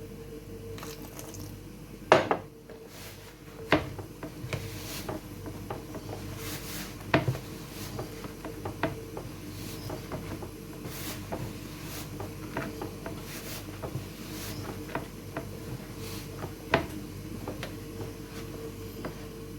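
Flour-and-cornmeal dough being kneaded by hand for dumplings, with irregular knocks and clatters of the dish it is worked in. Four knocks stand out, about 2, 4, 7 and 17 seconds in. A steady low hum runs underneath.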